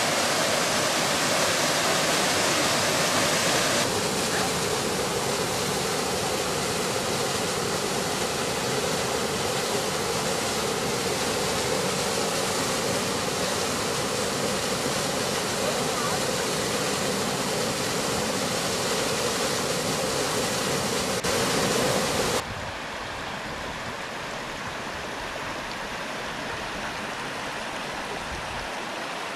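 Rushing water of a mountain torrent and waterfalls, a steady noisy rush. The sound changes abruptly about four seconds in and drops quieter about 22 seconds in.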